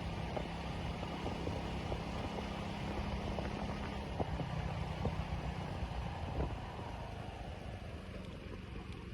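A vehicle engine running at a steady pace, a low drone under a wash of road and wind noise, easing off slightly near the end.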